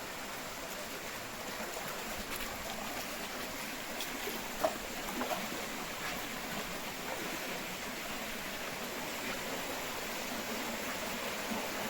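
Small river running steadily, an even rushing of water, with a couple of faint short sounds about five seconds in.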